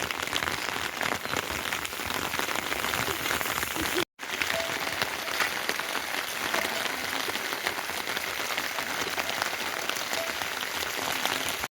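Heavy monsoon rain falling steadily on surfaces: a dense hiss full of individual drop ticks. It breaks off for a moment about four seconds in.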